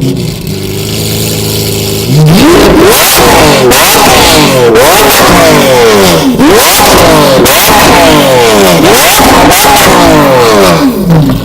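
Lamborghini Aventador LP750-4 SV's naturally aspirated V12 idling, then revved hard over and over, each rev rising quickly in pitch and falling back more slowly, before it drops back to idle at the end.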